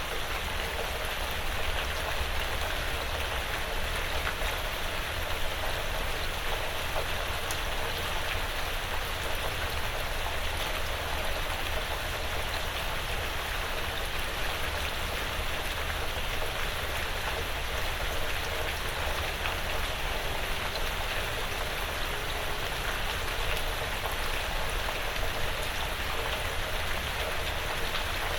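Steady light rain on a porch roof and the surrounding woods, an even wash of patter with scattered individual drop ticks.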